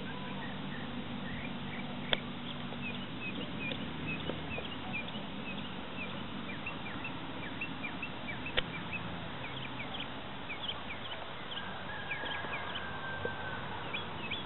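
Small birds chirping over and over in short high calls, over a steady outdoor background. A low drone fades out about three seconds in, and there are two sharp clicks.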